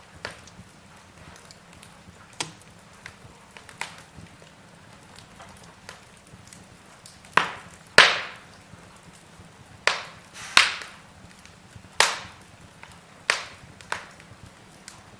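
Wood fire crackling in a fireplace: burning logs give irregular sharp pops and snaps over a low hiss, with a cluster of louder cracks in the second half.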